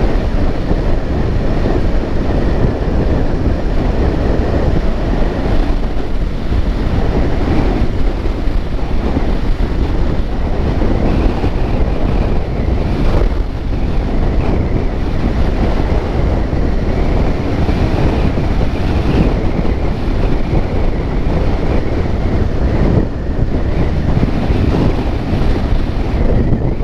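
Wind buffeting the microphone: a loud, steady rumbling rush with no clear pitch or rhythm.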